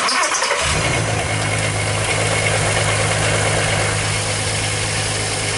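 2008 VW R32's 3.2-litre VR6 engine starting and settling into a steady idle, on its first run after an oil change to fill the new oil filter.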